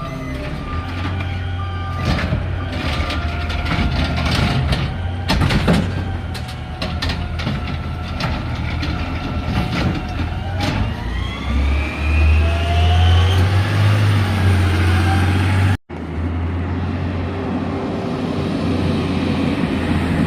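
Garbage truck engine running with a steady deep drone, with repeated clanks and bangs of metal in the first half. Around the middle the engine revs up with a rising whine.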